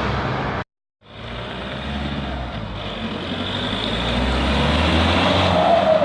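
VW Golf 5 2.0 PD TDI diesel engine running through an R32 exhaust as the car drives. The sound cuts out for a moment just after the start, then comes back and grows steadily louder toward the end.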